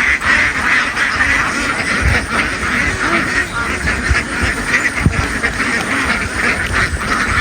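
A large flock of domestic ducks quacking continuously, many birds at once, with a few low thumps mixed in.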